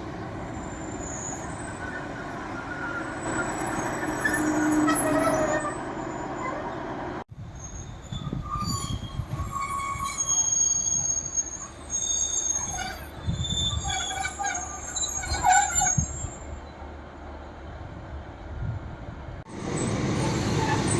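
Diesel passenger trains running on the line, with high-pitched squeals from brakes and wheels. The sound cuts abruptly twice, at about seven seconds and near the end, from a steady rumble to a spell of many short squeals with low knocks, then to a loud steady rush of noise.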